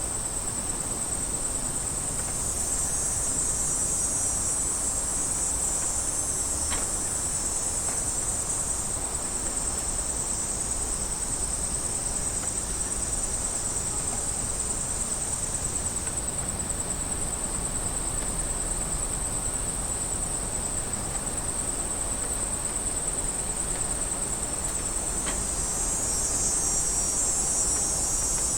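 A chorus of cicadas buzzing: a steady, high-pitched drone that swells slightly near the end.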